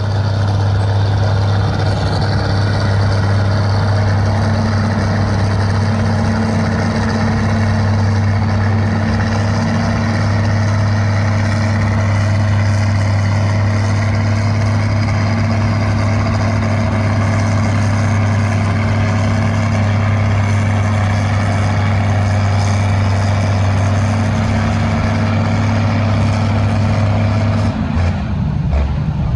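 Antique tractor engine running hard at a steady, unchanging pitch as it pulls a weight sled in a tractor pull, then dropping off near the end as the run finishes.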